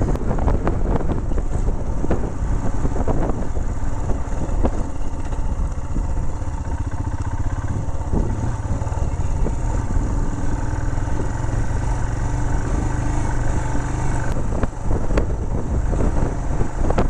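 Royal Enfield Himalayan's single-cylinder engine running steadily while riding along a track, with wind noise and a few sharp knocks.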